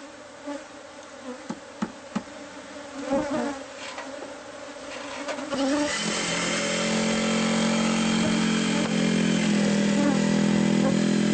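Honeybees buzzing: a scattered buzz with a few light knocks, then about six seconds in the swarm's buzz swells into a loud, steady drone.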